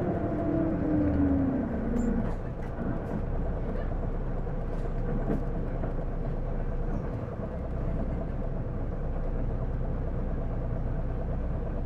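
Interior running sound of an Isuzu Erga PJ-LV234L1 city bus. A drivetrain whine falls in pitch over the first two seconds, then settles into a steady engine and road hum with a few light rattles. This bus makes an abnormal automatic-transmission-like whine when accelerating, which the uploader suspects comes from the transmission.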